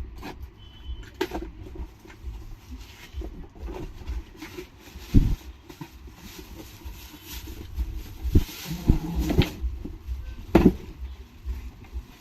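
Irregular knocks and clicks of brush cutter parts being handled and fitted together, over a steady low rumble. The sharpest knocks come about five seconds in and several times between eight and eleven seconds.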